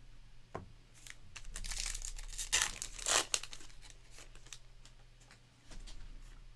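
A foil trading-card pack wrapper being torn open and crinkled, with two short, loud rips around the middle and a few small clicks.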